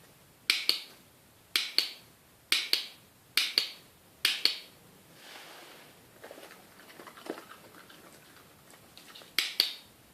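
Dog crunching treats: sharp double crunches about once a second, then a few seconds of soft quieter sounds, and one more double crunch near the end.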